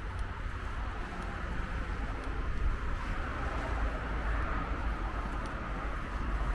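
Wind rumbling on the microphone over a steady hiss of city traffic.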